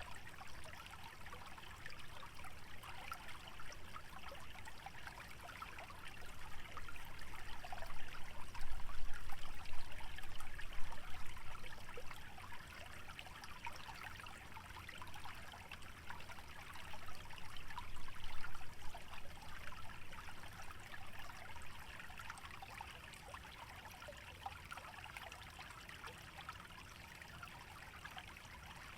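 Small stream trickling through a wetland, a steady watery hiss that swells louder for a few seconds about a quarter of the way in and again just past halfway.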